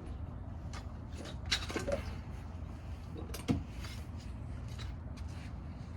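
A few scattered clicks and knocks of hand tools and parts being handled during engine-bay work, the sharpest about three and a half seconds in, over a steady low rumble.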